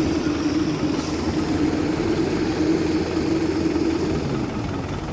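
Excavator's diesel engine running steadily, with a constant low hum.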